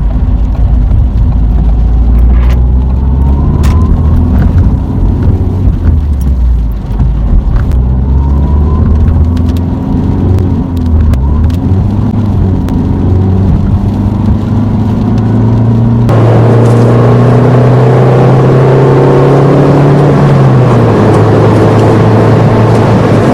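Ford Fiesta's engine heard from inside the cabin, pulling up through the gears of its manual gearbox, its pitch rising and then falling back at each shift. About two-thirds through, road and wind noise jump suddenly louder. The engine holds a steady drone and then drops in pitch near the end.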